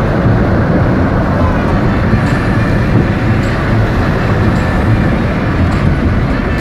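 Car driving along a highway: a steady, loud rumble of engine and road noise.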